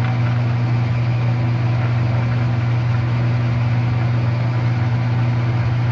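Metal lathe running steadily in back gear, a low, even machine hum while a thin bushing is drilled out slowly.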